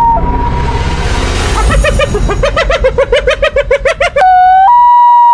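Hyena cackling sound effect: a fast run of short, pitched, laugh-like whoops, about five a second, lasting a couple of seconds. It is framed by a loud, steady, high electronic tone at the start and again from about four seconds in.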